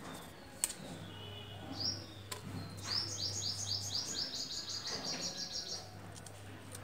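A small bird chirping: a single high chirp, then a quick run of about a dozen short high chirps, about five a second, lasting about three seconds. A sharp click comes about half a second in, over a steady low hum.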